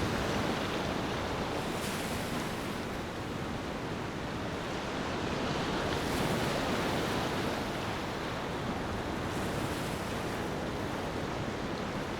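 Ocean surf washing onto a beach in a steady rush that swells and eases every few seconds.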